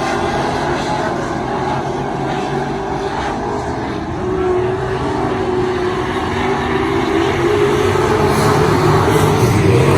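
A stock car's engine running hard at racing speed, its pitch wavering as the throttle changes. It gets louder over the last few seconds.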